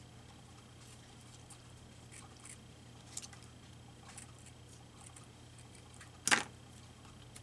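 Paper cutouts being handled and positioned on a desk: faint scattered rustles and ticks, with one short, louder sound about six seconds in, over a steady low electrical hum.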